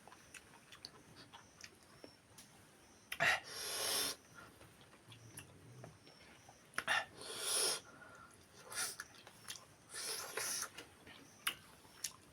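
A person eating close to the microphone: short bursts of chewing and breathing, about six in all, with quiet pauses between them.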